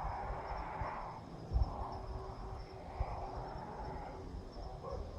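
Crickets trilling steadily in the background, over a low, uneven rumble of wind on the microphone and soft hissing swells about a second long.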